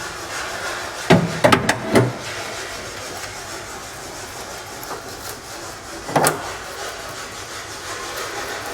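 Sharp knocks from tool work on a Humvee's body: four strikes in quick succession about a second in, then one more near six seconds.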